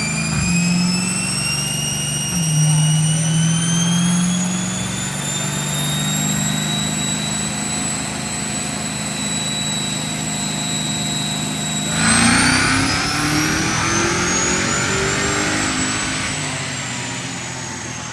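Dodge Challenger V8 engine doing a dyno pull: engine pitch climbs slowly and evenly, gets louder with a jump about twelve seconds in, climbs again and eases off near the end.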